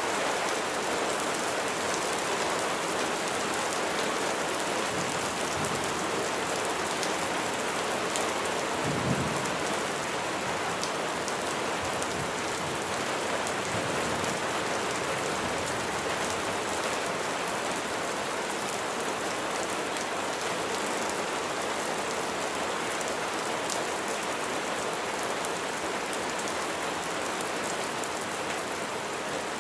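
Steady rain falling on a surface, a dense even hiss speckled with individual drop ticks. About nine seconds in there is one brief low thud.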